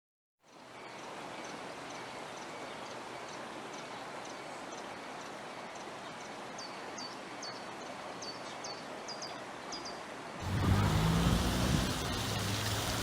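Steady outdoor background noise with a small bird chirping over and over, the chirps coming faster later on. About ten and a half seconds in, a much louder rushing noise with a deep rumble takes over.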